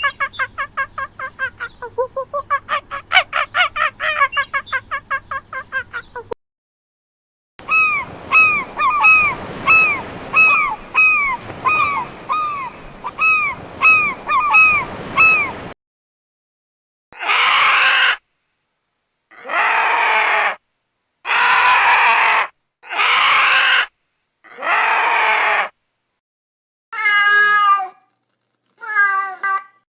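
Animal calls in separate cuts, mostly bird-like: first a rapid chattering run of calls, then short calls repeated about twice a second, then five long harsh calls about a second each, then two shorter calls near the end.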